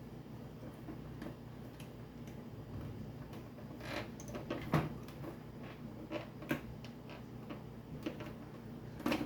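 Plastic cabinet of a Sharp VZ-1500 record player being worked apart by hand: scattered clicks and knocks as the hidden hooks are pried, the sharpest about halfway through and just before the end.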